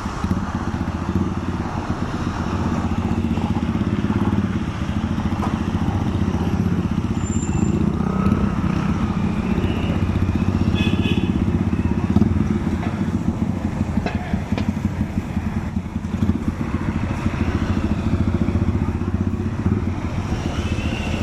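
Honda XR150L's single-cylinder air-cooled engine running steadily while riding in traffic, with road and wind noise over it.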